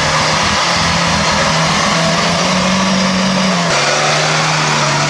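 Small off-road 4x4's engine held at high revs under load as it climbs out of a muddy pit. The pitch rises slightly and then dips a little near the end.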